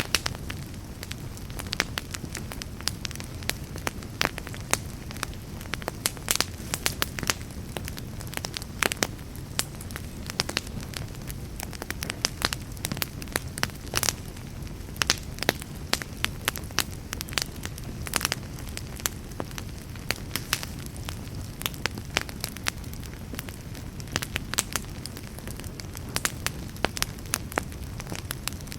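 Wood fire in a fireplace burning with a steady low rumble, crackling and popping in many sharp, irregular snaps.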